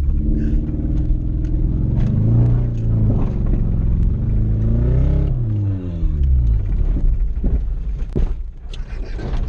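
1996 Toyota Celica's four-cylinder engine pulling under load, its pitch climbing a couple of seconds in and falling away around the middle. In the last few seconds the engine drops back and a run of sharp knocks and thuds comes through as the car bumps over rough ground.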